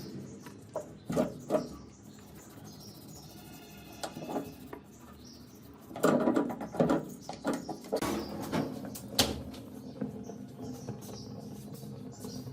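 Irregular small clicks, taps and scrapes of hand work on motorcycle parts, busiest about six seconds in.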